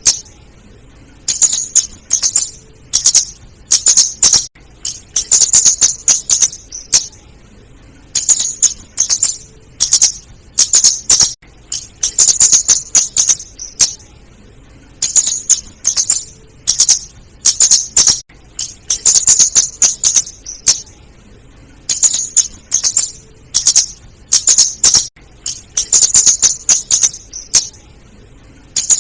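Female flowerpecker calling: clusters of rapid, very high, sharp ticking notes, each cluster about a second long, repeated every second or two. It is a lure call used to draw in or stir up other flowerpeckers.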